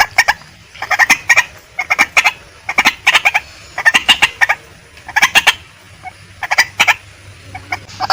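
Female white-breasted waterhen calling: repeated clusters of short, harsh notes, about one cluster a second.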